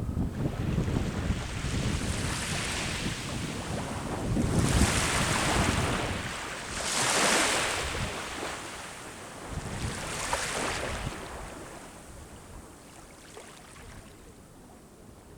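Sea waves breaking and washing up a shore, about three swells of rushing surf a few seconds apart, then fading to a quieter wash. Wind rumble on the microphone runs underneath.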